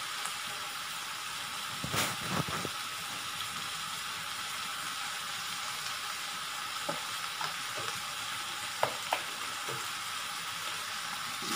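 Chicken pieces, potatoes and onions sautéing in oil in a wok, giving a steady sizzle. A few light clicks or knocks come about two seconds in and again a little past the middle.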